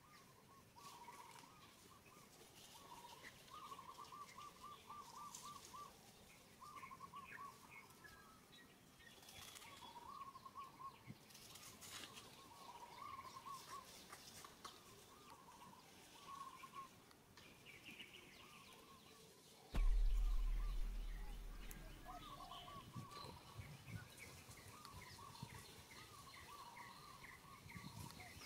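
A bird calling repeatedly in short trilled runs of quick notes, over faint outdoor background noise. About two-thirds of the way through, a sudden low rumble hits the microphone and fades over about two seconds.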